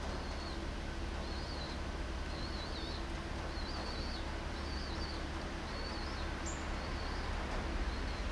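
A small songbird singing a run of short, high warbling phrases about once a second, over a steady low rumble.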